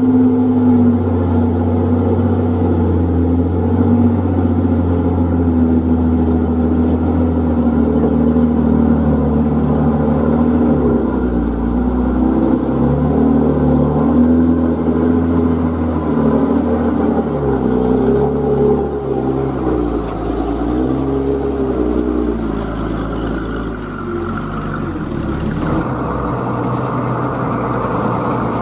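An old truck's engine working hard under load, its pitch rising and falling as the revs change. The sound changes abruptly near the end, as if to a different vehicle or shot.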